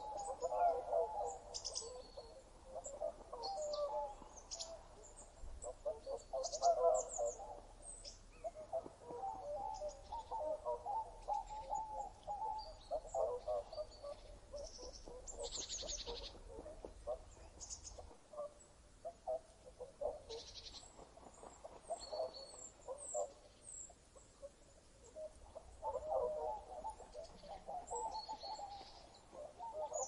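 Several birds calling: many short, high chirps over a busy, jumbled chorus of lower calls that comes and goes.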